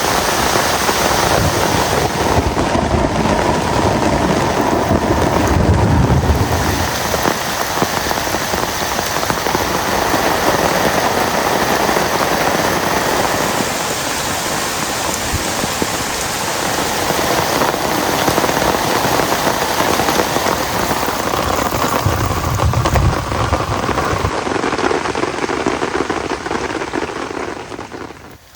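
Heavy rain falling steadily, with two low rumbles, one about five seconds in and another about twenty-two seconds in. The sound dips sharply just before the end.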